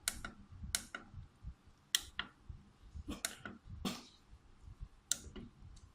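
Buttons on a water flow meter's control panel being pressed to set the flow value: a series of sharp, irregular clicks, about eight.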